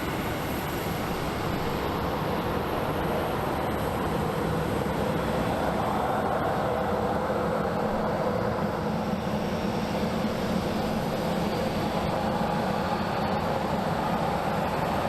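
Jet airliner engines running as an aircraft moves on or near the runway: a steady rumble that swells slightly through the middle, with a faint high whine that rises and falls.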